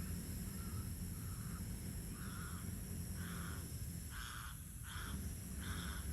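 A bird calling in a run of short, evenly spaced calls, a little over one a second, faint at first and louder from about two seconds in, over a steady low rumble.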